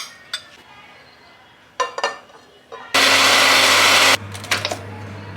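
Small clicks and knocks, then an electric kitchen blender runs in one loud burst of about a second. It cuts off abruptly, and its motor hum carries on for about a second and a half before stopping.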